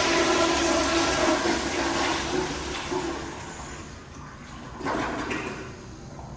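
American Standard toilet flushing: loud rushing water with a steady low tone that fades away over three to four seconds, then a brief surge of water about five seconds in.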